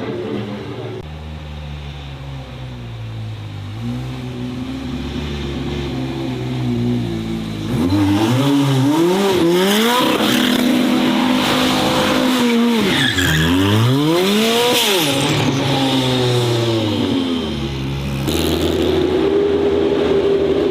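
A race car engine running low and steady, then from about eight seconds in revving hard, its pitch rising and falling repeatedly, while tyres squeal. Near the end it settles to a steadier, higher engine note.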